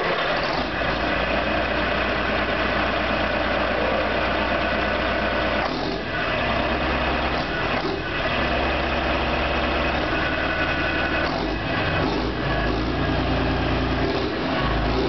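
Scania DS11 straight-six diesel engine running at a steady idle.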